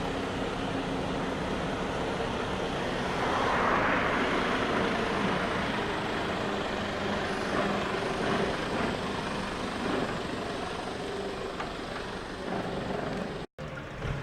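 Diesel engines of decorated trucks fitted with split exhaust manifolds (mani-wari) driving past, a steady engine note under a wash of exhaust noise. The noise swells about four seconds in as one comes close, and the sound cuts out for an instant near the end.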